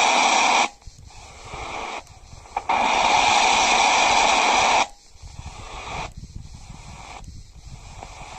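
AM radio receiver tuned between stations: loud hiss of static that cuts off abruptly about half a second in and comes back from about three to five seconds. Quieter crackling, uneven noise fills the gaps, as the tuning moves across a weak band with a broken antenna.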